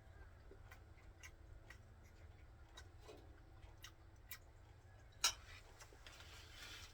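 Faint, scattered light clicks and ticks, about ten over the few seconds, with one sharper click about five seconds in and a brief soft hiss near the end, over a steady low hum.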